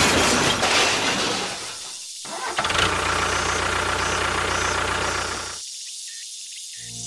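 Small engine of a DIY mini tractor running steadily. It cuts out abruptly for a moment about two seconds in and stops again near the end.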